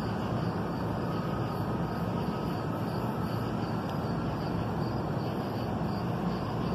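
Steady hum of a standing NJ Transit push-pull commuter train idling at the platform, its onboard equipment running. Insects chirp faintly in a steady pulse above it.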